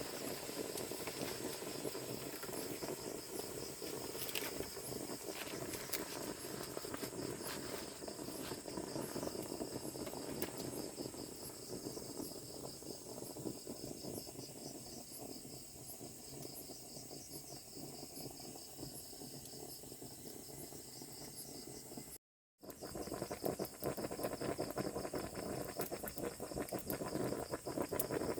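Steady high-pitched chirring of an insect chorus, with dense low crackling underneath. The sound cuts out completely for a moment about 22 seconds in, then returns with the crackling a little busier.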